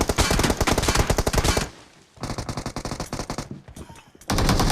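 Rapid automatic gunfire from a video game shooter, in three bursts: the first stops about a second and a half in, the second runs from about two to three and a half seconds, and the third starts near the end.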